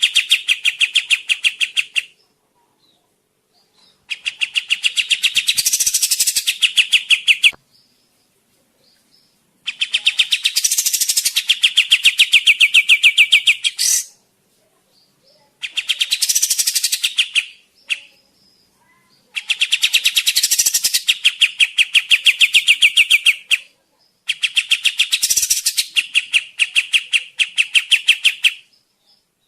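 Kapas tembak bird singing in rapid runs of quick repeated notes, each run lasting two to four seconds, broken by short silent pauses: a lure song used to call wild birds in.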